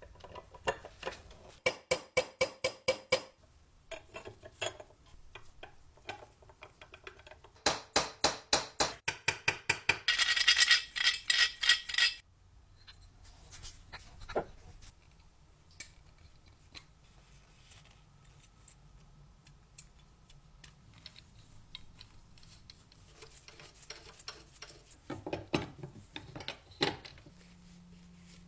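Small clicking and clinking handling noises, with two runs of rapid, even clicks, about six or seven a second, and the loudest part a two-second rush of noise near the middle, followed by scattered light ticks and another cluster of clicks near the end.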